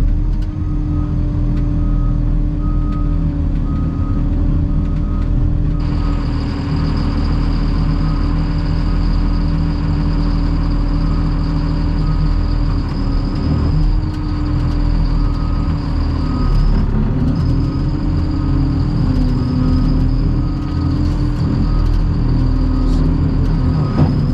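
Cat 725 articulated dump truck's diesel engine running as the machine is driven, its pitch shifting in the middle as the engine is throttled. A warning beeper sounds under twice a second, pausing for a few seconds, and a high steady whine comes in about six seconds in.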